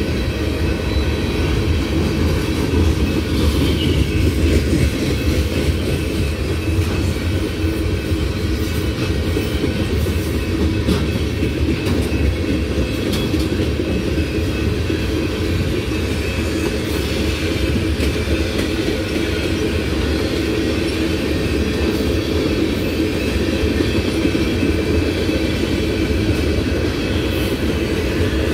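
Freight train cars, boxcars then tank cars, rolling past: a steady low rumble of steel wheels on rail with faint clicking over the rail joints.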